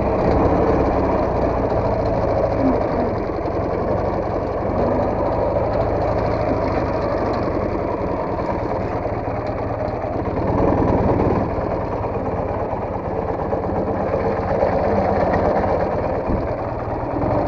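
Soviet motorcycle engine running steadily.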